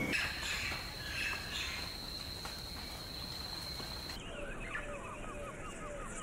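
A steady high-pitched insect trill with a few scattered bird chirps. About four seconds in, this cuts to a rapid run of short, falling animal calls, about four a second.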